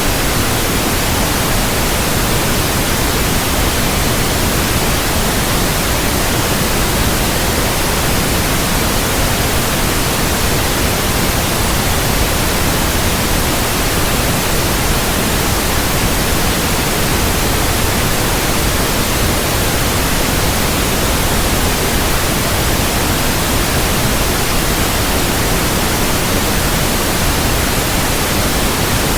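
Continuous steady electronic white noise, a loud even hiss spread across all pitches with no change or events, played as a sleep aid for infants.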